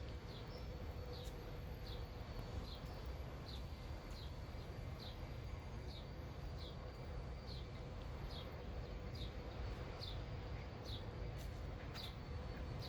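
A short, high chirp repeating very evenly, a little more than once a second, over a steady low city hum.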